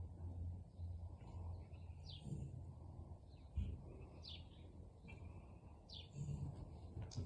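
A small bird chirping: short falling chirps about every two seconds, over a steady low outdoor rumble.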